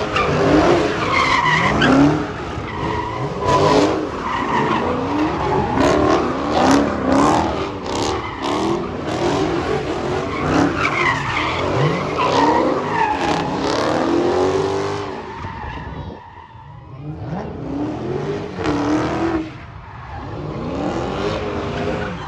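Dodge V8 muscle car revving hard with its tyres squealing and skidding, as in a burnout or drift run. The noise eases for a moment about two-thirds of the way through and again near the end.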